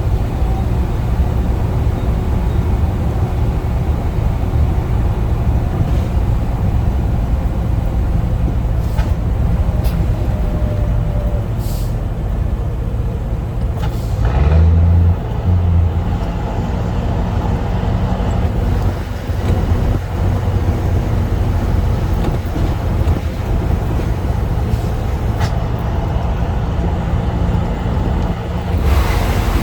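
Scania truck's diesel engine with a straight-through exhaust running under way, a loud, steady low rumble. About halfway through, its pitch rises and holds higher, with two loud low pulses just after.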